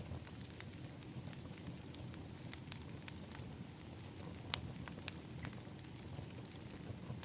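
Wood fire in an outdoor fire pit crackling: irregular sharp pops over a steady low rumble of the flames, the loudest two pops about four and a half and five seconds in.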